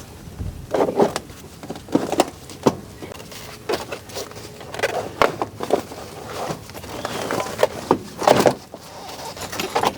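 Irregular knocks and clanks of hand work on a car, with parts and tools being handled, about a dozen sharp strikes scattered unevenly and the loudest about eight seconds in.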